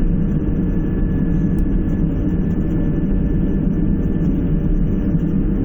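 Steady low rumble of an airliner's jet engines and airflow heard inside the passenger cabin while the plane taxis after landing, with a faint high whine that fades about four seconds in.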